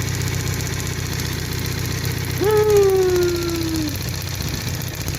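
A 1998 Toyota 4Runner's four-cylinder engine idling steadily. The engine has a misfire that has been traced to its spark plug wires arcing inside the plug tubes. About two and a half seconds in, a held tone sounds over the engine for about a second and a half, sinking slightly in pitch.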